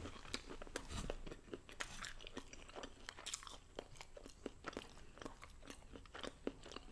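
A person chewing and crunching food close to the microphone, with irregular moist clicks and crackles several times a second.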